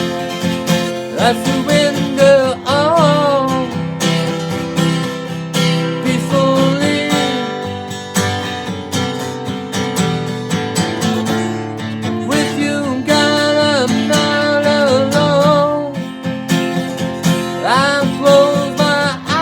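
Acoustic guitar strummed steadily in a slow Christian contemporary rock song, with a gliding, wavering melody line over the chords in several phrases and no words.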